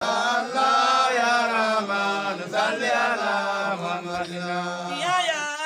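Voices chanting a devotional melody, with a low note held steadily beneath that stops just before the end.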